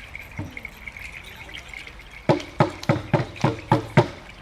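Hand drums beaten by the dancers, with one stroke about half a second in and then a steady beat of about three strokes a second from a little past the midpoint. A thin steady high tone runs underneath.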